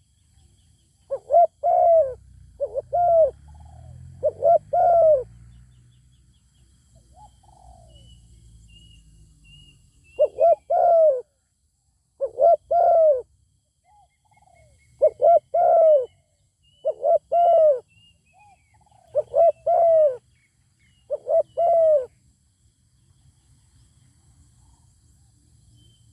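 Spotted dove cooing: short low coo notes given in repeated groups of two or three, a run early on, a pause of several seconds, then a longer run of phrases. Faint high calls of other birds or insects sit behind it.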